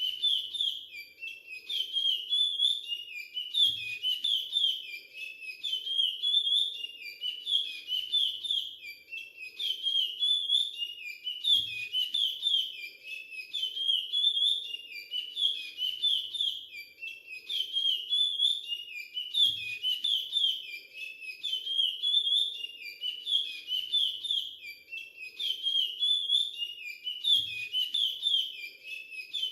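Young male curió (chestnut-bellied seed-finch) singing the Timbira 'virado clássico' song dialect: a fast run of clear whistled notes, repeated phrase after phrase without a break.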